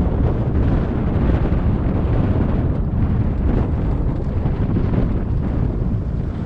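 Wind buffeting the microphone: a loud, steady rumble with no clear tone in it.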